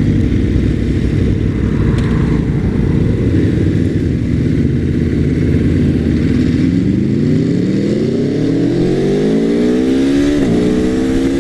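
Aprilia Tuono Factory V4 engine heard from the rider's seat: it runs steadily at first, then the revs climb hard from about two-thirds of the way in. Near the end the note drops sharply for a quickshifter upshift, then starts climbing again.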